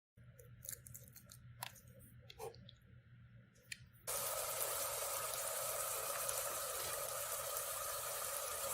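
A few faint knocks and clicks. About four seconds in, chicken pieces frying in oil in a pot take over with a loud, steady sizzle.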